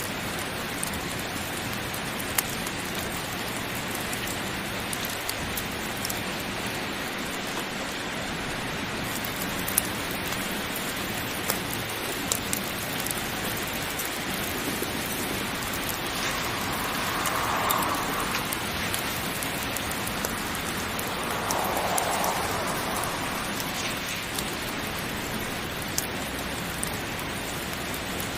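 Heavy rain falling steadily, an even hiss with scattered sharp ticks of drops. The sound swells briefly twice in the second half.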